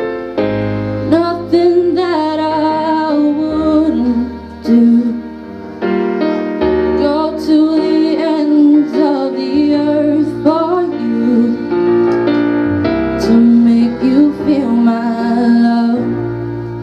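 Female voice singing a slow ballad to piano accompaniment, with long sustained low piano notes under the melody.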